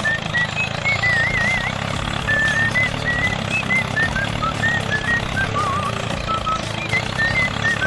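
Small engine running with a fast, steady rattle under a high, stepping whistle-like melody of background music.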